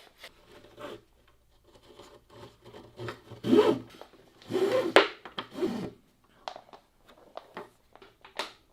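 Irregular strokes of rubbing and scraping on wood, the two strongest about three and a half and five seconds in, followed by a series of short light taps and clicks.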